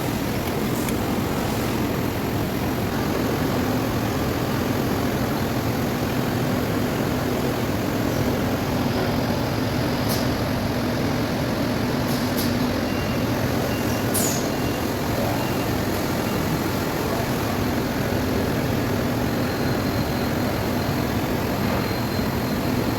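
Metal lathe running steadily with a constant hum, a few short sharp clicks between about ten and fourteen seconds in.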